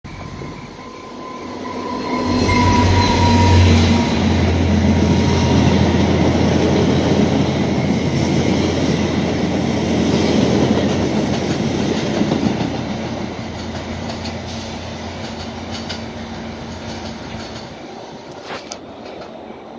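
VIA Rail passenger train passing: a low engine hum swells to its loudest about three to four seconds in, then the cars' wheels rumble along the rails, fading steadily over the last several seconds as the train draws away.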